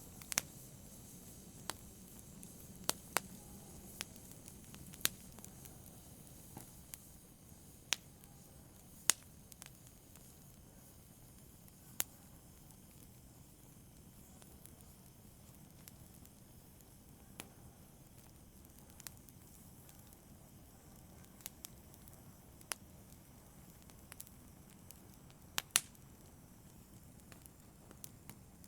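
Wood fire in a fireplace crackling: sharp, irregularly spaced pops and snaps over a soft, steady hiss.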